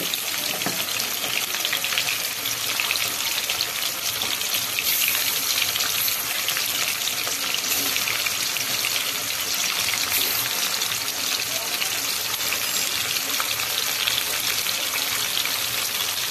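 Chicken pieces frying in hot oil: a steady sizzle with fine crackling.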